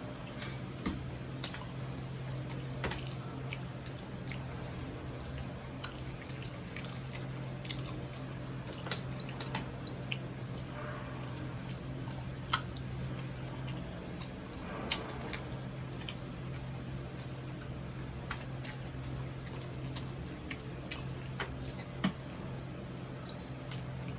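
Close mouth sounds of someone eating crispy fried pork knuckle: chewing with wet smacks and scattered sharp crunchy clicks. A steady low hum runs underneath.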